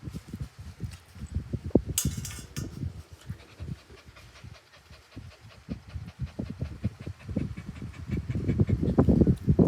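Puppy panting in quick, irregular breaths that ease off midway and pick up again, louder, near the end. A short hissing rustle sounds about two seconds in.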